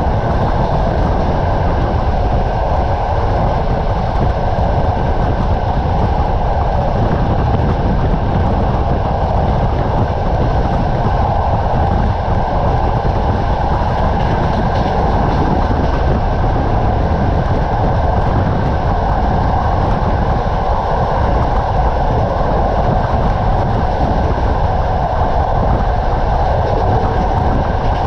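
Passenger train carriage running at speed: a steady, even rumble and rush of wheels on the rails, heard from inside the carriage at the window.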